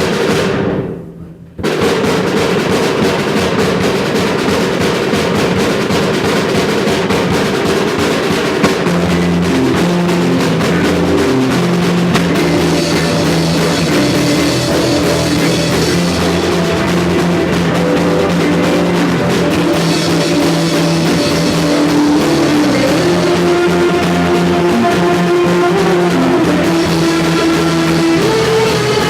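Rock band playing live, the drum kit prominent under sustained bass and guitar notes. The sound drops out briefly about a second in, then the full band comes back in.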